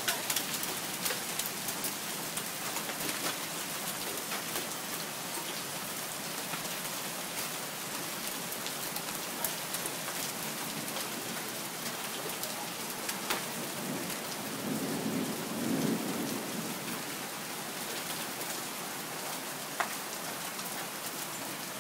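Hail pouring down, a steady hiss of falling ice dotted with many sharp clicks of hailstones striking hard surfaces. A brief low rumble swells about fifteen seconds in.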